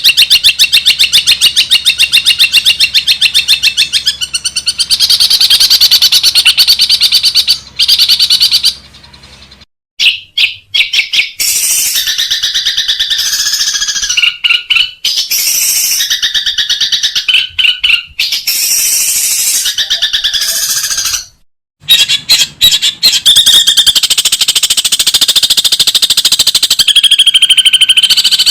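Long-tailed shrike (cendet) song from a bird-training track: fast trains of repeated high, chattering notes in several differently patterned bursts. There are brief breaks about ten seconds and about twenty-two seconds in, where the recording goes silent.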